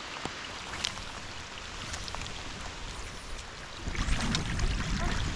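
Steady rain hissing on the water around the kayak, with scattered drop ticks. About four seconds in, a louder low rumble joins it.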